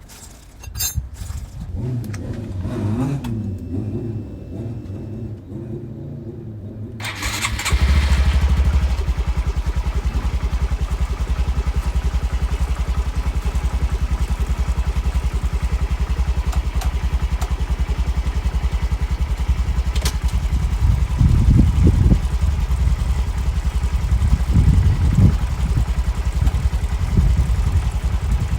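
Honda Grom 125's single-cylinder four-stroke engine starting about seven seconds in, after a few clinks of handling, then idling with a steady pulse. It is revved briefly twice in the last third.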